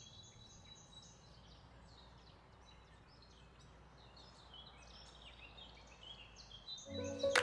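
Faint birds chirping in the background over a low hum, with many short high chirps. Music comes in just before the end.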